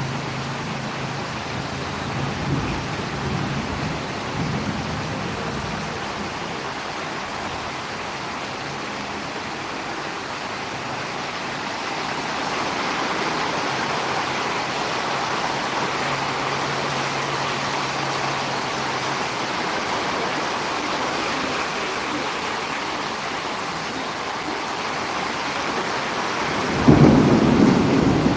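Steady rain falling, heavier from about halfway through, with a sudden low rumble of thunder near the end.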